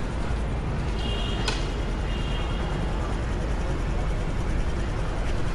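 Steady street traffic noise with a low rumble, and a single sharp click about one and a half seconds in.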